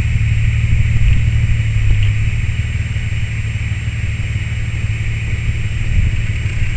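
A 1997 BMW 528i's inline-six idling, with a steady low rumble through its Magnaflow muffler and aftermarket headers; the engine is fitted with S52 cams.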